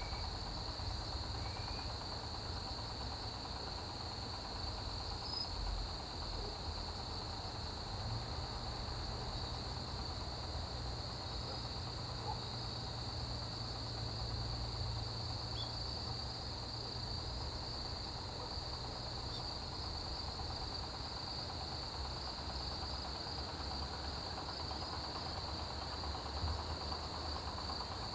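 Autumn chorus of crickets and other grass insects: a steady, high continuous trill with a higher, regularly pulsing chirp layered over it, over a low rumble.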